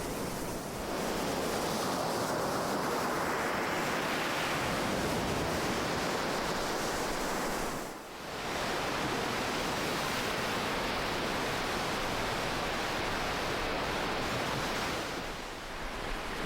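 Ocean waves washing onto a shore: a continuous rush of surf that swells in, drops away briefly about halfway through, and eases off near the end.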